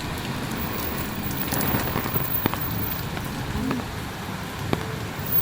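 Heavy rain falling steadily, with a few sharp taps of single drops standing out.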